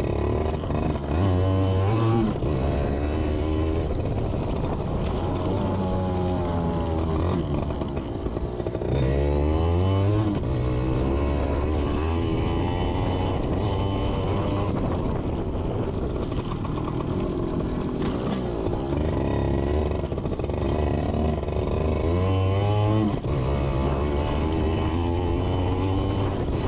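Yamaha PW80's small two-stroke single-cylinder engine being ridden, revving up and easing off over and over, with three strong climbs in pitch.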